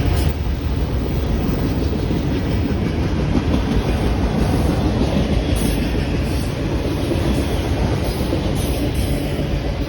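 Train cars rolling past close by: a steady low rumble with the clatter of wheels over the rail joints.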